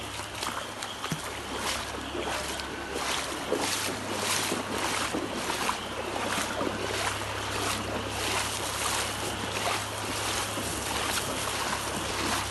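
Rhythmic splashing and sloshing of floodwater, about two splashes a second, over a steady low hum, with wind on the microphone.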